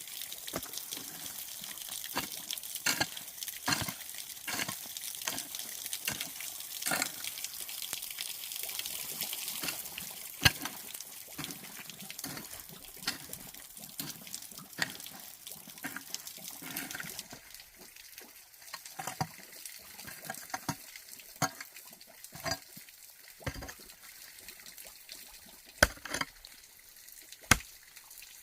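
Water trickling and splashing, with many sharp clicks and knocks over it; the watery hiss fades a little over halfway through, leaving scattered knocks.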